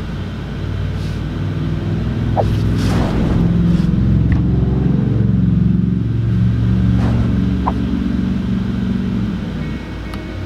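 A vehicle engine running, revving up about two to three seconds in, holding, and settling back near the end. Two short high squeaks come at about two and a half and seven and a half seconds.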